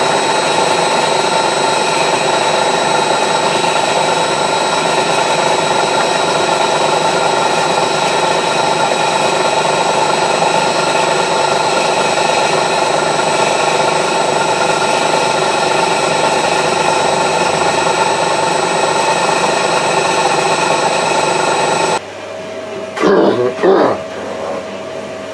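Milling machine running and taking a light skimming cut across two steel wood-chipper blades clamped at 30 degrees, a steady loud whine with several fixed tones. About 22 seconds in it cuts off abruptly to a quieter machine hum with a few short louder sounds.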